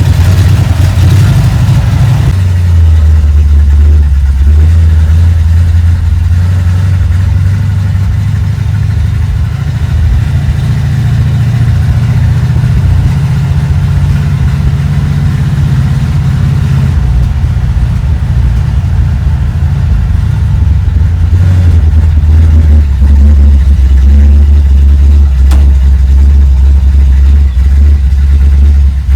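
Chevrolet 350 small-block V8 running, a steady low engine note whose speed steps up and settles back a few times.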